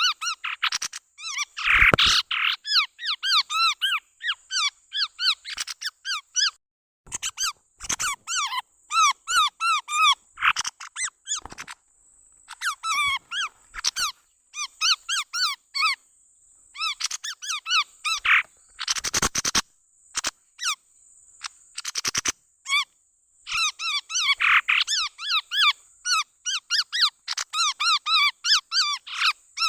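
Chestnut-rumped babbler calls played as a bird lure: fast runs of sharp chirping notes in phrases broken by short pauses, over a faint steady high-pitched whine.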